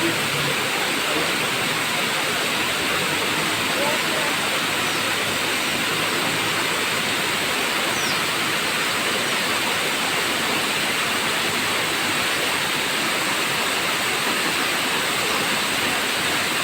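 Tamaraw Falls waterfall: a steady, even rush of falling water.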